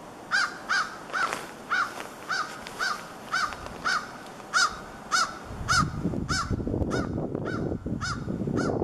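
A bird calling over and over, a short note about every half second, some fifteen notes in a row. A low rumble comes up in the second half.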